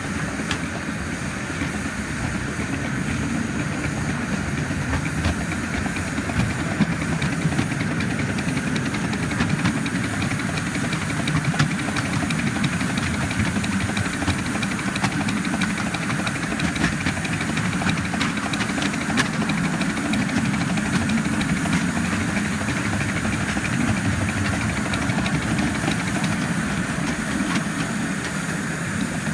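Live-steam 7¼-inch-gauge model of a D&RGW C-19 2-8-0 locomotive running under steam, heard from the cab: a steady hiss of steam over the rumble of the wheels, with scattered clicks from the track.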